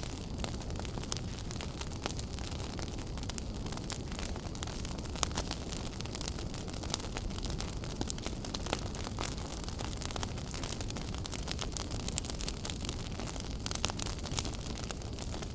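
Wood fire in a fireplace crackling, with irregular sharp pops and snaps scattered over a steady low noise of the flames.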